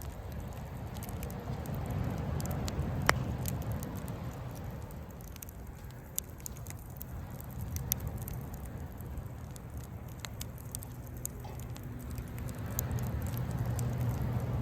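Wood campfire crackling with scattered small pops and one sharper pop about three seconds in, over a low steady rumble.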